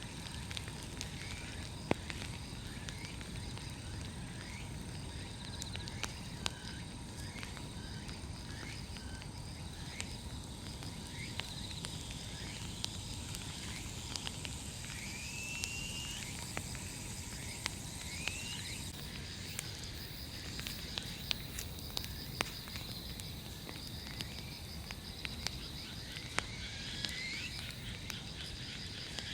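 Large wood bonfire burning: a steady low rush with scattered sharp pops and crackles. Under it, insects keep up a pulsing high trill and something gives short rising chirps now and then.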